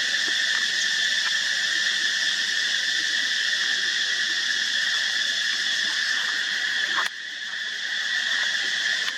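Steady, high-pitched droning chorus of insects, which drops abruptly in level about seven seconds in.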